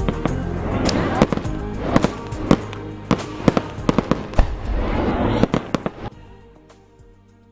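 Fireworks going off: rapid bangs and crackles over music. The bangs stop suddenly about six seconds in, leaving only quieter music.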